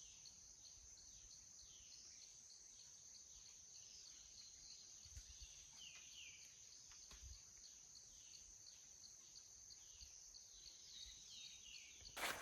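Faint forest ambience: a steady high-pitched insect drone, with a run of short falling chirps repeating every half second or so.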